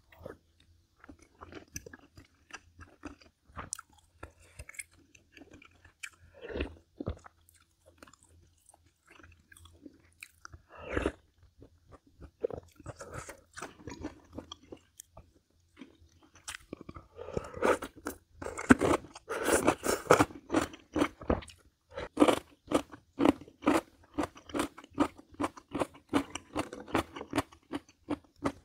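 Close-miked chewing with wet mouth clicks. About halfway through it turns into rapid, louder crunching of something crisp.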